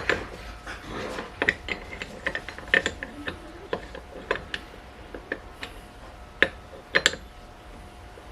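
Irregular metallic clicks and clanks as a brake disc hub and a bearing driver are flipped over and set up in a press, with two louder clanks near the end.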